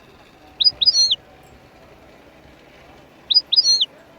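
A small bird chirping: two short phrases, about a second in and again near the end, each a few quick high notes ending in a whistle that rises and falls.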